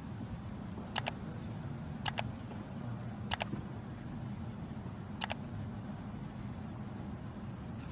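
Steady low drone of a car being driven, heard from inside. Four sharp double clicks come through it at uneven gaps, about one, two, three and a half and five seconds in.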